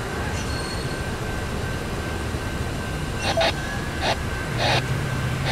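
CSX diesel freight train shoving a cut of cars: a steady low rumble with a faint steady whine, a few short bursts of noise in the second half, and a deeper steady hum that comes in near the end.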